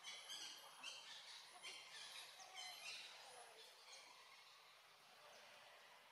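Faint birdsong: short, high chirping calls repeated about every half second, fading out after about three seconds.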